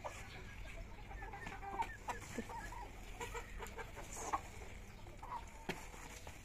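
Faint, scattered short bird calls, with a few soft knocks in between.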